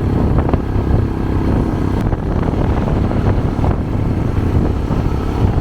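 Motorcycle engine running on the move, a steady low rumble mixed with wind buffeting the microphone.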